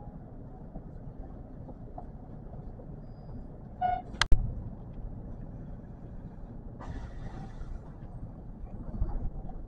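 Kintetsu electric train running, a steady low rumble heard from inside the car. About four seconds in, a short tone ends in one sharp, loud click, and a brief hiss follows about three seconds later.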